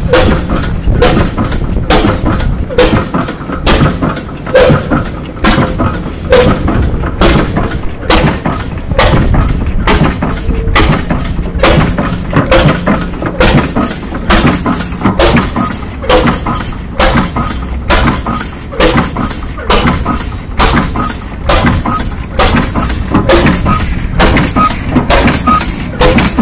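60 hp Western gas engine running, its exhaust firing in a steady rhythm of loud bangs roughly two a second over a low rumble.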